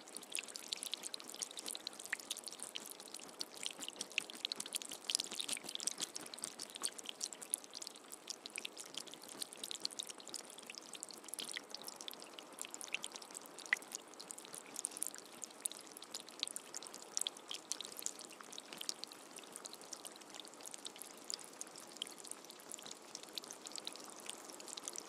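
Steady rain falling, a continuous hiss dotted with many small, sharp drop impacts. No thunder is heard.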